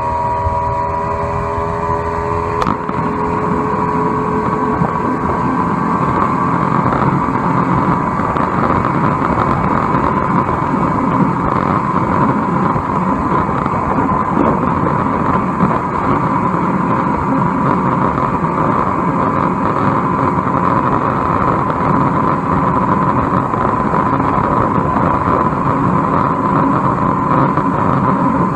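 Johnson 120 hp V4 two-stroke outboard motor running the boat under way, its pitch rising for the first few seconds. It then holds a steady high drone under a broad rushing noise.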